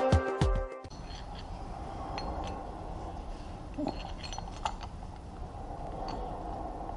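Music that stops suddenly under a second in, then a faint steady background hiss with a few light clinks, about three, spread through the rest.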